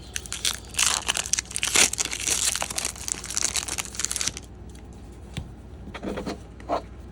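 Plastic wrapping on trading-card packs being torn open and crinkled, a dense crackling that stops about four seconds in, followed by a few soft handling sounds.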